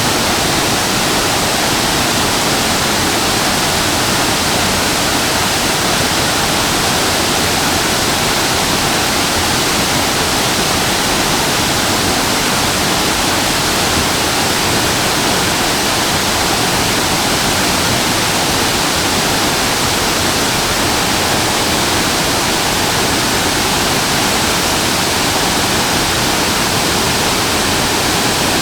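Waterfall crashing into its plunge pool: a loud, steady rush of falling water with no breaks or changes.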